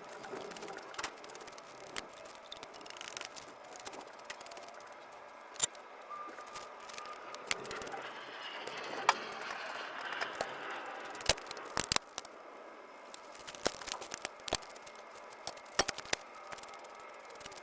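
Irregular sharp clicks and light knocks, a dozen or more spread unevenly, over a faint steady background noise.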